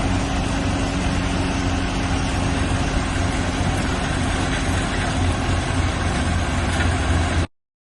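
Diesel engine of a bhusa (straw) combine harvester machine running steadily with a low hum, cutting off suddenly near the end.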